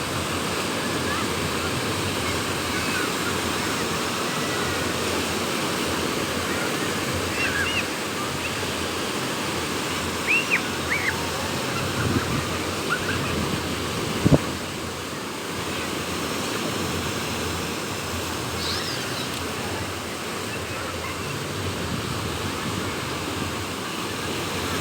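Sea waves surging and breaking on a beach, with wind, making a steady rushing noise. A few short high chirping calls come through in the middle, and there is one sharp knock about fourteen seconds in.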